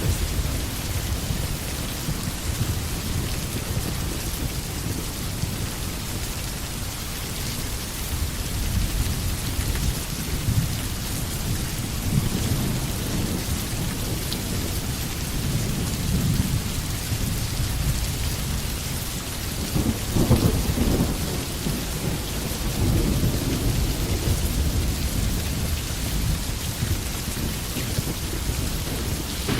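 Steady rain falling in a forest, with low thunder rumbling under it that swells about twenty seconds in.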